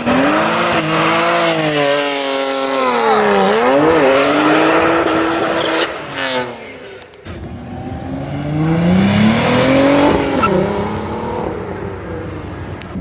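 A vehicle engine revving hard at high rpm, its pitch wavering up and down. The revs fall away about six seconds in, then climb again.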